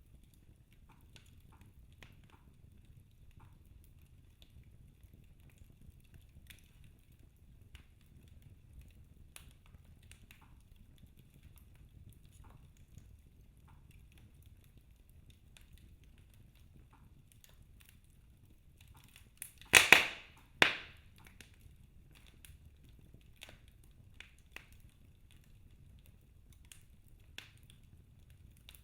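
Wood fire burning with a low rumble and sparse faint crackles. About two-thirds of the way through come two loud, sharp cracks less than a second apart.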